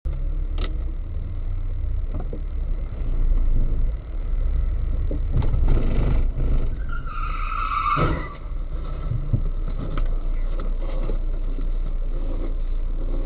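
Car on the move heard through a dashcam: steady low rumble of engine and road noise, with a few knocks and a brief high-pitched squeal about seven seconds in.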